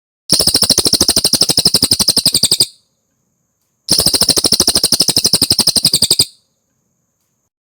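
Cililin song: two fast, dry trills, each a rapid string of about sixteen notes a second lasting around two and a half seconds, with a pause of about a second between them.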